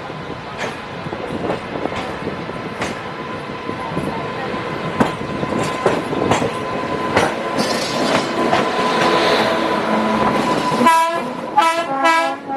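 A passenger train running, with wheels clicking over rail joints and a thin steady whine. Near the end a train horn sounds in short blasts.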